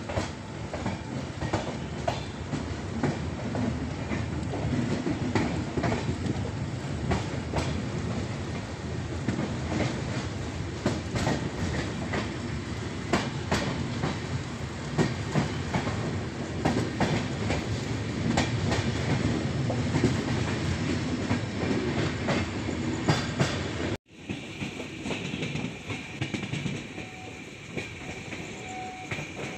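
Express train with LHB coaches running at speed, heard from an open coach door: a steady rumble with rapid, irregular clicking of wheels over rail joints and points. About 24 seconds in the sound cuts off abruptly and resumes as a quieter, steadier run.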